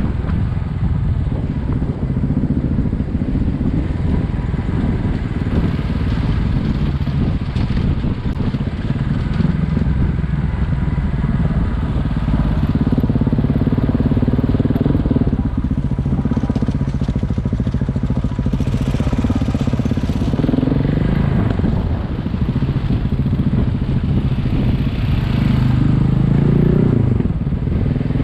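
Single-cylinder adventure motorcycle engine running on the move, its pitch rising and falling several times as the throttle changes, over steady wind and road noise.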